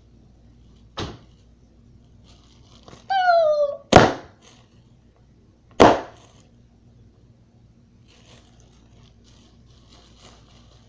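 Bottle rockets going off: a sharp pop about a second in, then a short whistle falling in pitch followed at once by a loud bang, and another bang about two seconds later.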